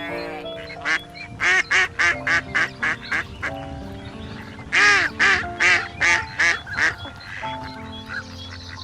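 Duck quacking in two runs of short, rapid quacks, the second run louder, over background music.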